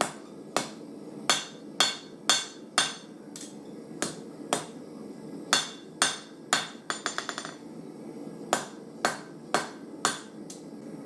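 Hand hammer striking hot 1084 carbon steel on an anvil while forging a knife blade, about two ringing blows a second. Around seven seconds in there is a quick run of light taps, then a short pause before the blows resume, over a steady low hum.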